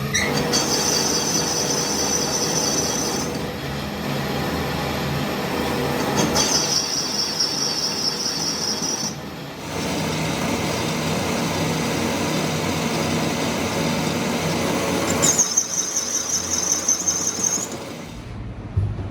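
A metalworking machine running with steady machining noise and a low hum. A high-pitched squeal with a fast wobble sets in three times, each lasting about three seconds. The sound dies down near the end.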